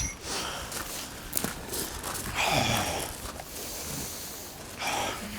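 A strongman breathing hard after straining at a heavy stone lift: a long breathy exhale with a falling groan about two and a half seconds in, and another exhale near the end.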